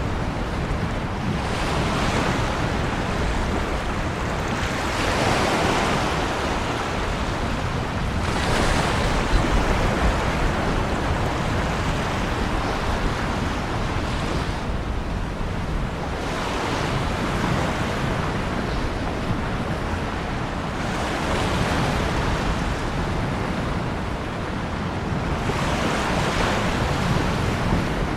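Ocean surf: waves breaking and washing in, swelling and easing every three to five seconds over a constant low rumble.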